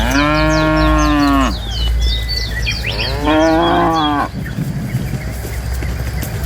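Cow mooing: two long, loud moos about a second and a half each, the second coming a little under three seconds after the first.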